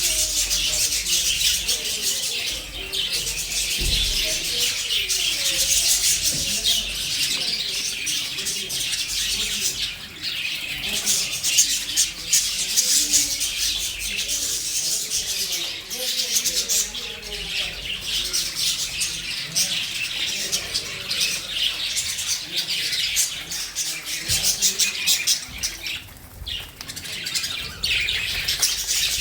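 A flock of budgerigars chattering and chirping continuously, with many high twittering calls overlapping.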